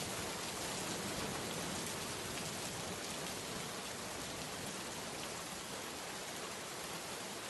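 Steady heavy rain falling and pattering on surfaces, a dense even hiss with scattered drop ticks.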